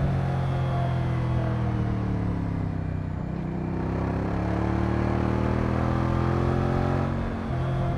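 Moto Guzzi V100 Mandello's transverse V-twin engine running under way: the revs ease down for about three seconds, then climb steadily again, with a brief drop in revs and level near the end before it carries on.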